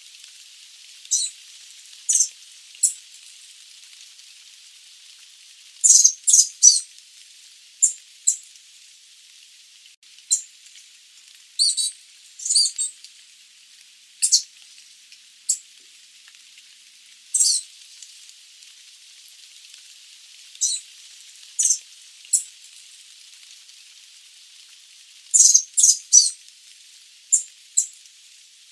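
Sooty babbler giving short, sharp, high-pitched call notes at irregular intervals, sometimes singly and sometimes in quick runs of three or four, over a steady high hiss.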